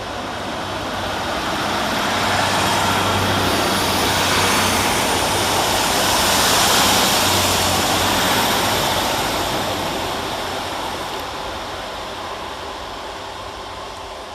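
Two coupled Class 150 Sprinter diesel multiple units pulling out of the station: a steady diesel engine hum under wheel and rail noise that swells to a peak about halfway through, then slowly fades as the train moves away.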